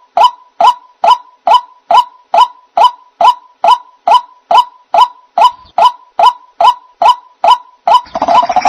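White-breasted waterhen (ruak-ruak) call played as a bird-trapping lure: one short note repeated evenly, nearly three times a second. Near the end a harsher, noisier layer of calling comes in under the repeated notes.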